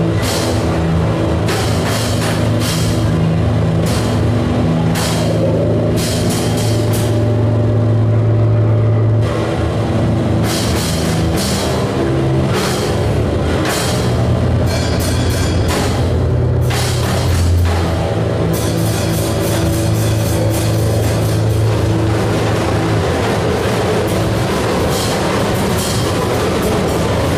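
Loud noise music: sustained low droning tones under a dense wash of distorted noise, broken by irregular crashing hits that come thicker and faster in the second half.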